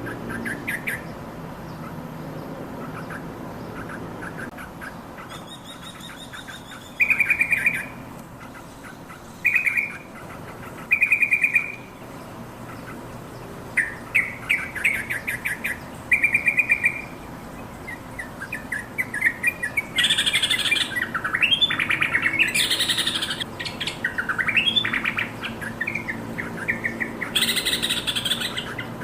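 Yellow-vented bulbul calling in short bursts of rapid chattering notes. About two-thirds of the way in these give way to a longer, louder run of bubbling song.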